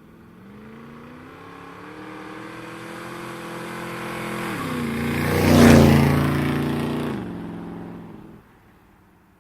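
A car driving past. Its engine note grows louder as it approaches, is loudest a little past halfway, then drops in pitch and fades away as it goes by.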